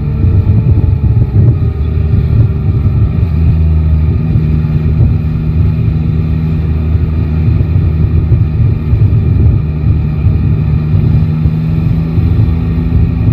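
Yamaha Tracer 9 GT's inline-three engine running under the rider, its revs easing down over the first few seconds and then holding steady, under a heavy low rumble of wind on the microphone.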